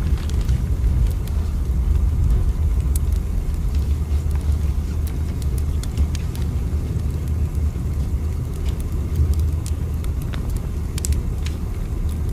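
Steady low rumble of a train running, with faint scattered clicks.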